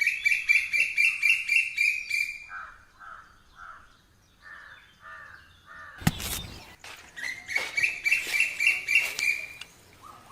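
A bird calling in fast runs of repeated high notes, with slower, lower notes in between. There is a short noisy burst about six seconds in.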